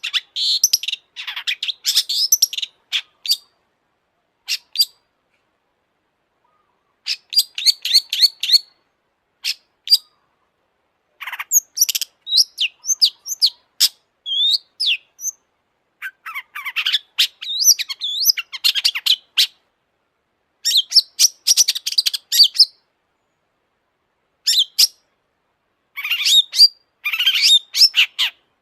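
Long-tailed shrike (cendet) singing: bursts of rapid chirps and trills, each a second or two long, separated by silent pauses of a few seconds.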